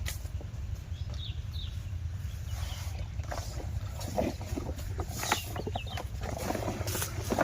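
An 8 hp single-cylinder diesel water pump engine running steadily with a low, even rumble. Scattered short clicks and knocks sound over it.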